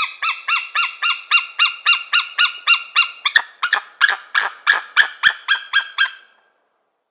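An eagle calling a rapid series of high, piping chirps, about four a second. About three seconds in the notes turn harsher and fall in pitch, and the calling stops about six seconds in.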